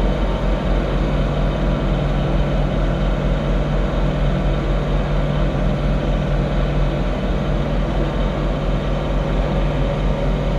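John Deere 3046R compact tractor's diesel engine running steadily under load, driving its snowblower, with a constant low hum.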